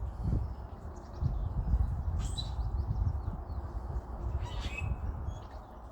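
Short bird calls, one about two seconds in and another a little before the end, over a steady low rumble.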